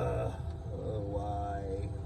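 A man humming a tune to himself, with drawn-out notes that slide up and down in pitch.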